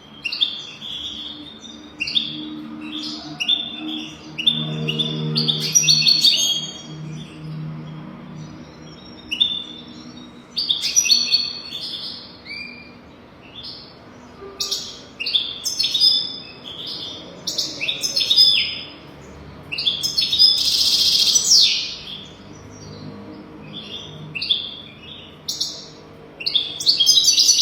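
European goldfinch singing: a continuous run of quick, twittering chirps and trills, with a louder, harsher buzzy phrase about twenty seconds in.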